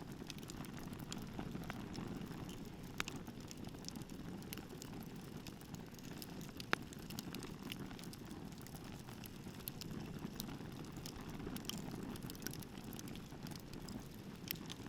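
Wood bonfire burning: a steady low rush of flame with scattered crackles and pops, the sharpest about three and seven seconds in.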